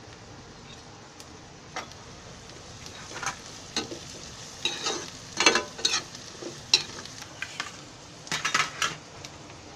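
Onions frying in oil with freshly added ginger-garlic paste and curry leaves, a steady sizzle under the stirring. The utensil scrapes and knocks against the kadhai in irregular clicks, busiest in the middle and again near the end.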